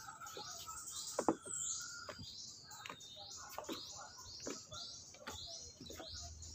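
Birds calling, with high falling chirps repeating about twice a second, and scattered sharp knocks among them.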